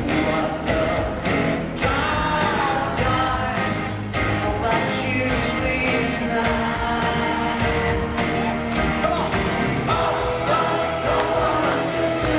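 Live pop-rock ballad performance: a male lead vocal sung over a full band, with a steady drum beat.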